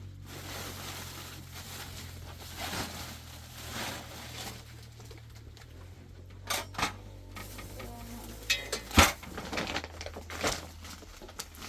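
A handful of sharp knocks and clatters, the loudest about nine seconds in, over a steady low hum.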